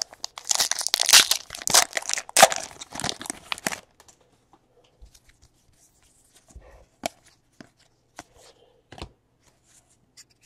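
A trading card pack wrapper being torn open, crinkling for about three seconds, followed by a few faint taps.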